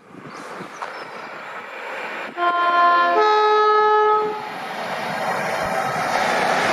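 Train approaching and sounding its two-tone horn, a lower note then a higher one, for about two seconds starting a little over two seconds in. The rushing noise of the train grows louder as it comes past.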